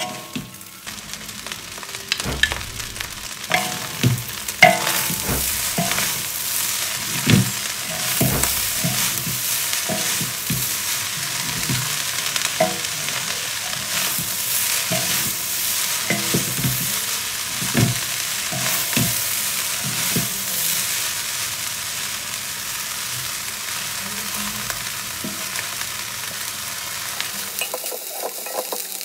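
Fried rice sizzling in a wok as it is stir-fried, with a utensil scraping and knocking against the pan. The strokes come thick and fast for most of the time and thin out near the end.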